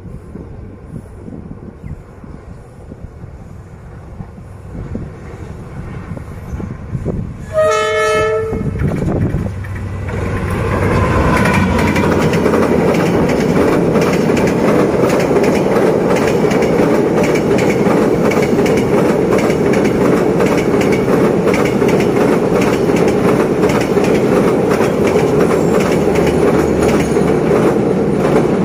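Vietnam Railways D19E diesel-electric locomotive approaching with a faint rumble, sounding its horn once for about a second, then passing close with a train in tow: a loud steady rumble of the engine and wheels with rapid clickety-clack over the rails.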